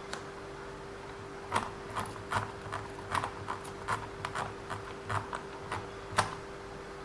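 A run of light, irregular clicks and taps of small plastic and metal RC-car parts being handled, about fifteen of them close together, over a faint steady hum.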